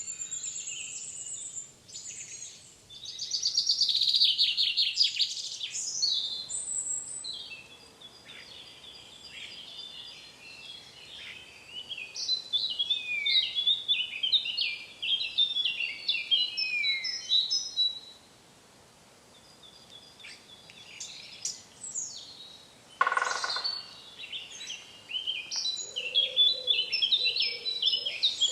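Several wild birds singing, with varied whistled phrases and trills overlapping one another and a short lull partway through. About three-quarters of the way in, a brief harsh sound cuts across them.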